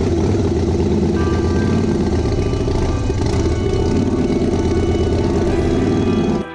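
Motorcycle engine running steadily, with music under it; the sound cuts off suddenly near the end.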